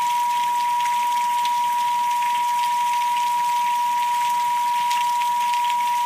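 A steady, unwavering pure tone, a meditation 'pineal frequency' tone, held over a recording of rain with crackly drop sounds.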